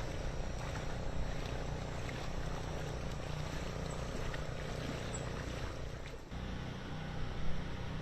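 An engine running steadily, its low hum under a haze of noise, with a brief drop about six seconds in.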